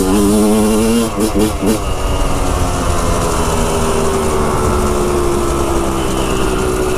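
Dirt bike engine running under throttle while riding on a trail, with wind noise. In the first two seconds the engine note wavers up and down with the throttle; after that it holds and slowly drops in pitch.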